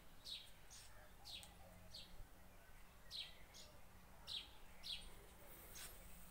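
A small bird chirping repeatedly and faintly. About ten short, high chirps, each falling in pitch, come irregularly, some in quick pairs.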